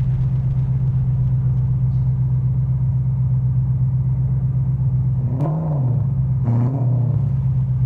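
Muscle car engine idling with a steady, pulsing rumble, revved in two quick blips about five and a half and six and a half seconds in.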